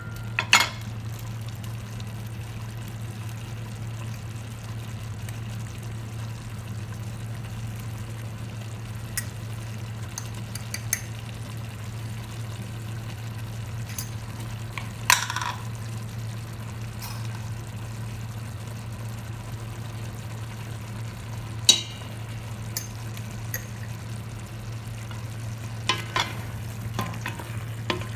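Chicken frying in a pan: a steady low hum and a sizzle throughout, with a few sharp clinks of a utensil against the pan about halfway through, again a little later, and several more near the end.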